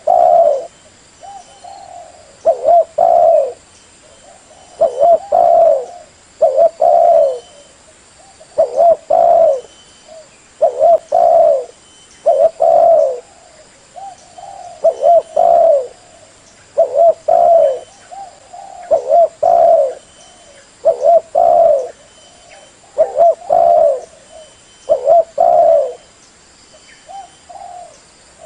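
Female spotted dove cooing: short phrases of a few coos each, repeated about every two seconds. It is the hen's call used to rouse male and decoy doves.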